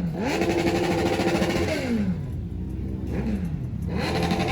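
A car engine revving: it climbs quickly, holds at high revs for about a second and a half, drops back toward idle, then is revved up again near the end.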